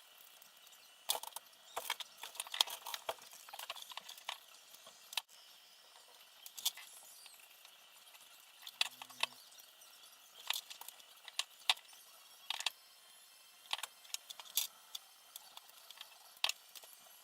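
Small hard parts being handled and fitted during the build of a quadcopter frame: irregular light clicks, taps and rattles, in clusters with short pauses between them.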